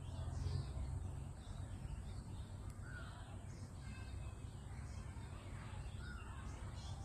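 Birds calling in short, scattered calls, crow-like caws among them, over a steady low rumble.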